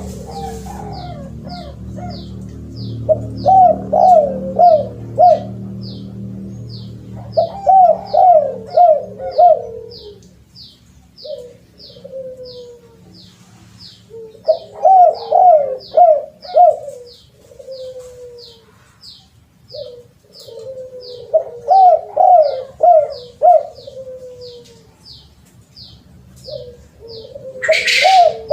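Spotted dove (terkukur) cooing: repeated phrases of four or five quick coos, one phrase every six or seven seconds. A steady high ticking runs underneath at about one and a half ticks a second.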